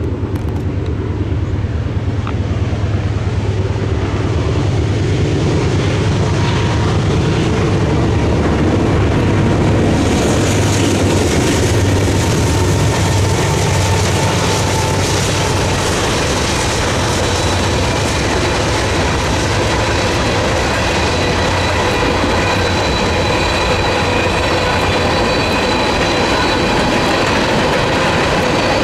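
Mixed freight train passing, led by GE diesel locomotives (a Dash 9-44CW and two AC44C6Ms) with engines rumbling heavily. From about ten seconds in, freight cars roll by with wheel clatter and some faint steady wheel squeal.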